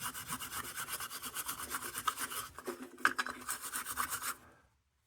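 Steel wool scrubbed quickly back and forth on the metal of a 1945 Dietz No. 2 Blizzard lantern: fast, even, scratchy strokes, about five a second, that stop about four and a half seconds in.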